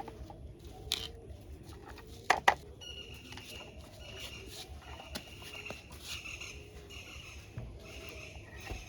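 A few sharp clicks and taps of small plastic toy parts being handled, the loudest about two seconds in, followed by faint, broken high chirping.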